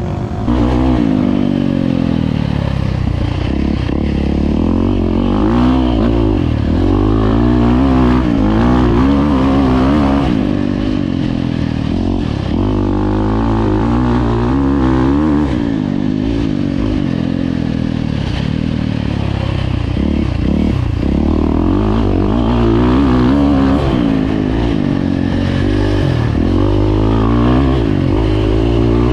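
Dirt bike engines revving, pitch rising and falling again and again as the riders go on and off the throttle, several engines overlapping.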